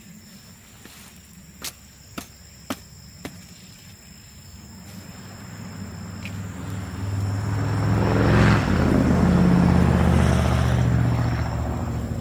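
A motor vehicle drives past, its engine sound building over several seconds, loudest about two-thirds of the way in, then easing off. Before it, four sharp pops from the burning bamboo fire.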